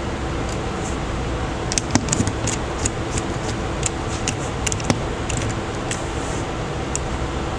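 Scattered small clicks and taps of tools and parts being handled while a smartphone is taken apart, over a steady fan-like hum.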